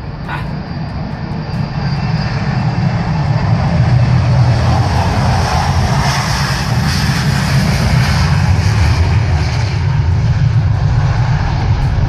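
Boeing 737 jet engines at takeoff power during a heavy, overweight takeoff: a deep rumble with a broad hiss above it. The sound grows louder over the first few seconds, then holds steady.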